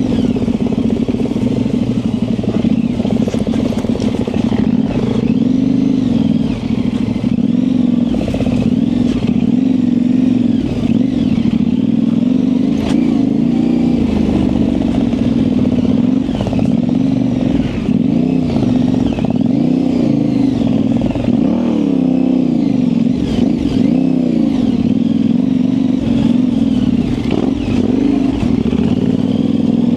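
Yamaha Ténéré 700's 689 cc parallel-twin engine running through an aftermarket high exhaust while riding dirt single track, its pitch rising and falling over and over with the throttle.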